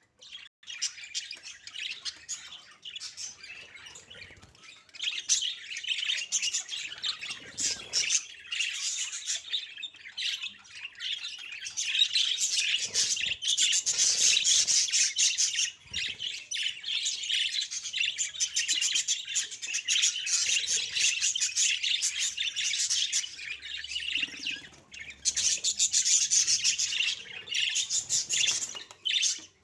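Budgerigars chirping and chattering continuously in a rapid stream of high twitters, growing louder about twelve seconds in.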